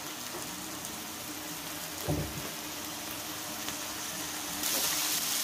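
Ground spice paste sautéing in a hot wok with a light sizzle, and a single knock about two seconds in. Near the end a louder, brighter sizzling hiss starts as vegetable oil goes into the pan and begins to fry the paste.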